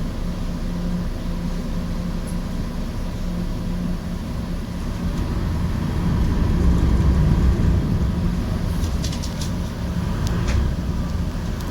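Passenger ferry's engine running with a steady low hum, swelling a little about halfway through. A few light clicks near the end.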